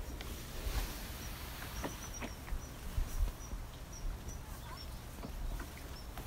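A small bird repeating short high chirps, roughly two or three a second, over a faint low rumble of outdoor air.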